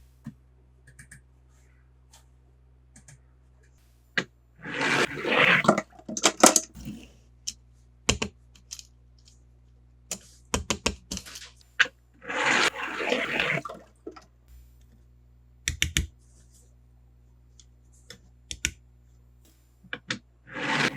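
Plastic toy cars and packaging being handled, with scattered sharp clicks and taps and three short bursts of rushing, rustling noise about eight seconds apart.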